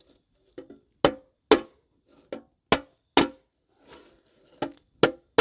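Knife point being knocked into a metal tea tin's lid to punch air holes for making charcloth: about nine sharp, slightly ringing knocks at an uneven pace.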